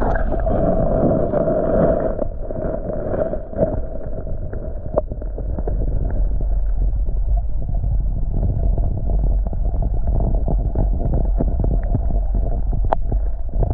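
Loud, muffled rushing and gurgling of creek water close to the microphone, heavy in low rumble, with a few sharp clicks. It starts and stops abruptly.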